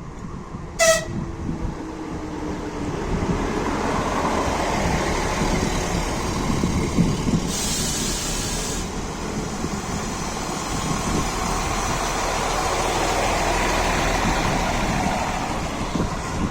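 RA2 diesel railbus giving a short horn toot about a second in, then its engine and wheels on the rails growing louder and running steadily as the train moves. A short hiss comes about halfway through.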